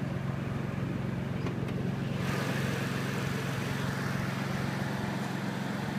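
Mitsubishi GTO's twin-turbo V6 idling steadily with an even low hum. About two seconds in, a steady hiss joins it.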